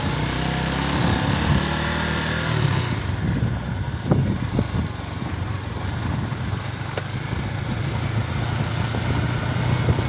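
Motorcycle engine running while riding along a road, with wind and road noise; the pitch rises over the first few seconds as it speeds up, and a few sharp knocks come about four seconds in.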